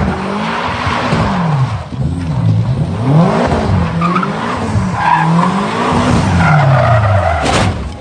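Car engine revving up and down over and over while the tyres skid and squeal. A brief sharp noise comes near the end.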